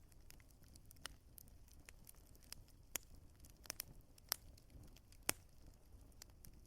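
Wood fire crackling: irregular sharp pops and snaps from the burning logs over a faint low rumble, the loudest pop about five seconds in.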